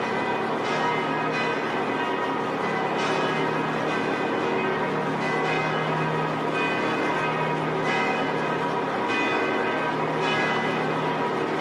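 Bells ringing, a new stroke roughly every second, their tones overlapping and sustaining, over a low steady hum.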